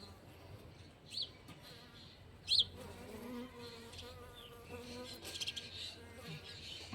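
Bees buzzing, a faint wavering hum that rises and falls in pitch as they fly. Two short, high chirps cut through it, one about a second in and a louder one about two and a half seconds in.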